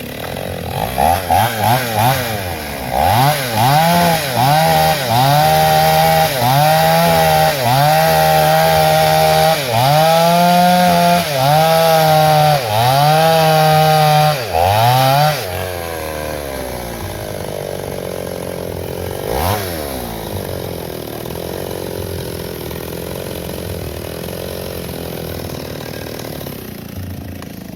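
Two-stroke chainsaw engine revved in about a dozen bursts of throttle, its pitch climbing, holding, then dropping again every second or so. After about fifteen seconds it settles to a quieter, steadier running.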